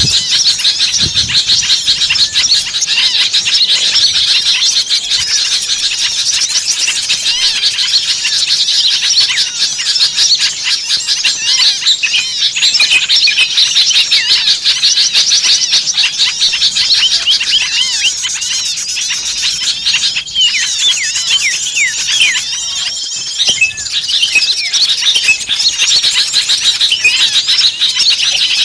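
A dense, agitated chorus of many small songbirds chirping and trilling over one another without a break. It is a mixed-species bird-lure recording of excited small birds, used to draw other small birds in.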